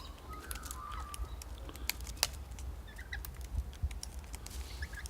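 Small birds feeding at a seed feeder: many sharp clicks of beaks pecking at seed, with a few short chirps, over a low rumble.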